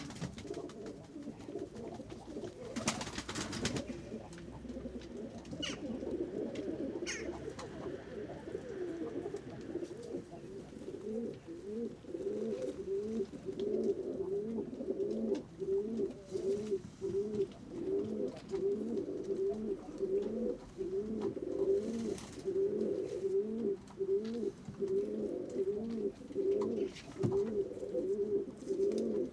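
Domestic pigeons cooing, overlapping at first, then settling into a steady rhythm of low coos from about ten seconds in. A short burst of noise sounds about three seconds in.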